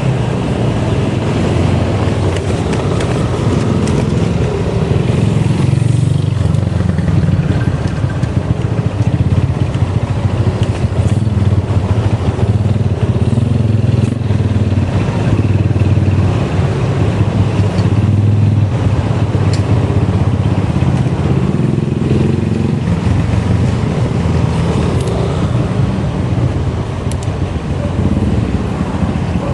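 Continuous loud low rumble of a bike in motion on the road.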